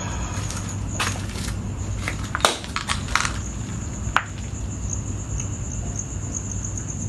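Crickets chirping steadily under a few bouts of crunching on debris, with one sharp knock about four seconds in.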